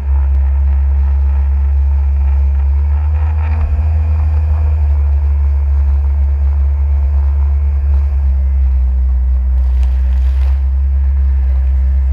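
Jet ski engine running steadily under way, a loud constant low rumble, with a short hiss about ten seconds in.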